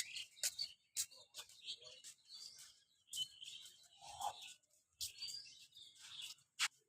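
Small birds chirping in short repeated phrases, about one a second, with a few sharp clicks in between.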